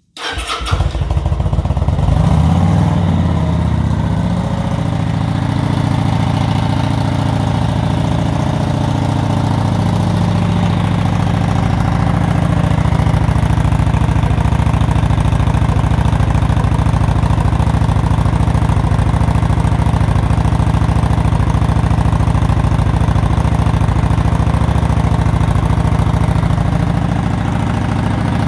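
V-twin engine of a 2017 Kawasaki Vulcan 900 motorcycle starting from cold: it catches at once and settles within a few seconds into a steady idle. The stock mufflers are partially debaffled, with holes drilled in the baffles, which gives the idle a little rumble.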